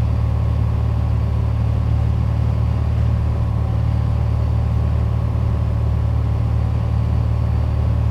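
Piper Dakota's six-cylinder Lycoming O-540 engine and propeller droning steadily in the cabin, held at one reduced power setting for a stabilised descent down the approach.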